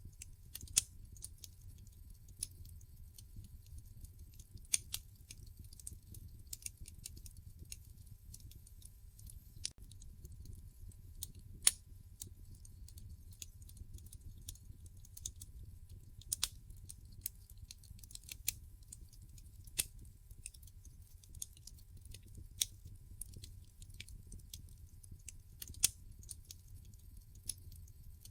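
Wood fire crackling in a fireplace: sharp, irregular pops and snaps every second or two over a low, steady rumble of the burning logs.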